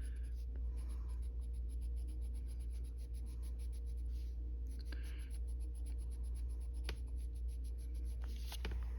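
Arteza colored pencil scratching across paper in quick, short back-and-forth shading strokes, several a second, with a brief lull a little under halfway through.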